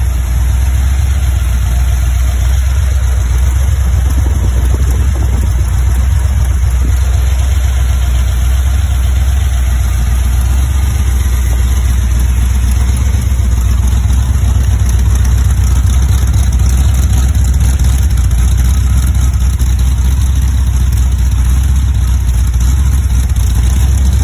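Freshly rebuilt 1971 Dodge Charger R/T 440 V8, bored 40 over and fitted with a temporary 4-barrel carburetor, running steadily on an engine run stand during break-in.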